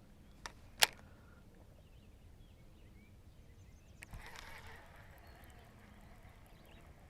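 Fishing tackle being handled in a kayak between casts: two sharp clicks a moment apart, the second loud, then a few seconds later a knock followed by a short hiss.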